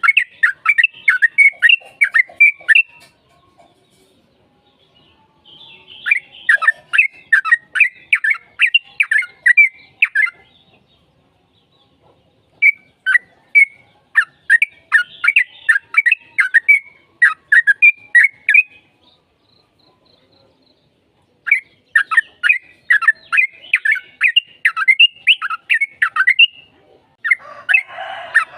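Yellow-vented bulbul (trucukan) singing in bursts of quick, bubbly chirping notes, several a second. Each burst lasts a few seconds with short silent pauses between, about five bursts in all.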